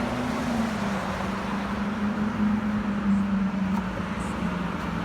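A car engine idling steadily, a low hum that wavers slightly in pitch, over a steady outdoor hiss.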